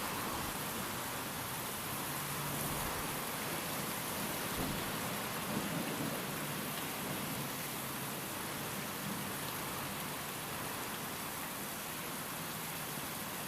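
Steady rain with wind: an even hiss of falling rain, with a low rumble of thunder swelling briefly about halfway through.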